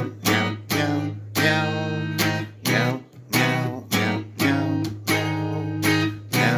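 Music: a guitar strummed in a steady rhythm, about two chord strokes a second, each ringing out over a held low note.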